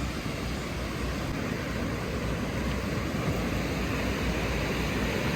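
Steady roar of sea surf on a beach, with no separate events.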